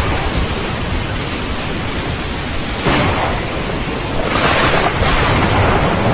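Steady heavy rain hiss with low thunder rumbling underneath. The downpour surges louder suddenly about three seconds in and again a second or so later.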